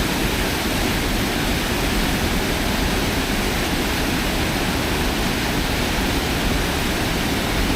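Steady rush of water pouring over a small dam in a stream running high.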